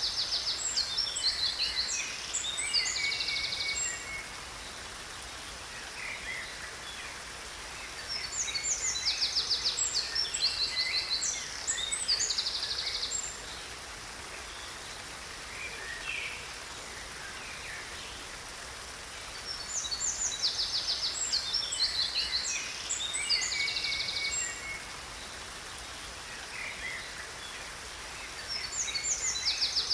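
Songbirds singing in bouts of about four seconds, roughly every ten seconds, with fast high trills and chirps. A steady hiss of falling water runs underneath.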